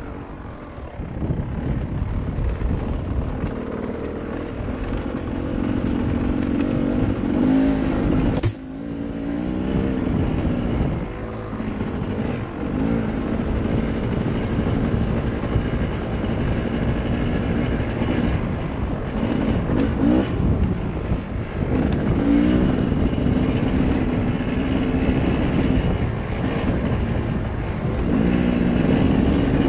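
Dirt bike engine running and revving up and falling back again and again, with a brief dip about eight seconds in.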